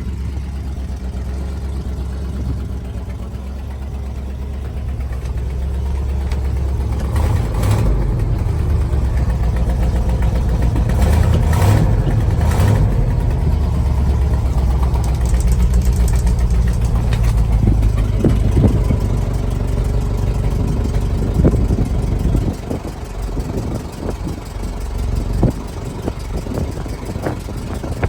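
1983 Ford F700 truck's engine running, getting louder about six seconds in and dropping back about twenty-two seconds in.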